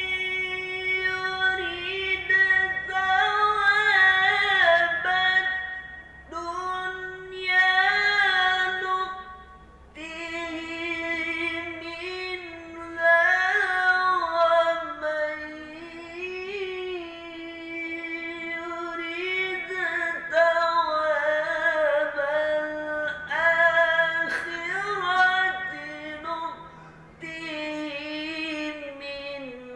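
A single voice reciting the Quran in melodic tilawah style, drawing out long held vowels with wavering, ornamented turns in a high register. Phrases break with short breaths about 6 and 10 seconds in and again near the end.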